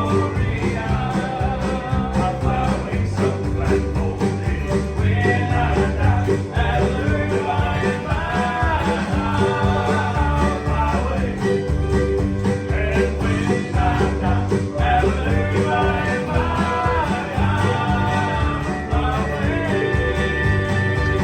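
Live country-gospel band music with a steady bass-driven beat, guitar, and a melody line above it.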